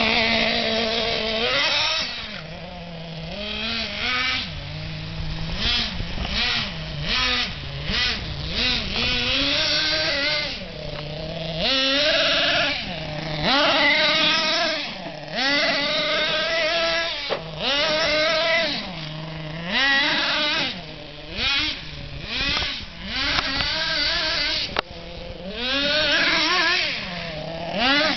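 CEN Genesis radio-controlled monster truck's small engine, idling and then revving hard and dropping back again and again as the truck is driven in short bursts of throttle.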